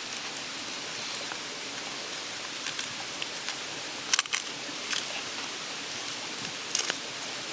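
Steady rush of a mountain stream, with a few short sharp clicks: a loud cluster about halfway through and another near the end.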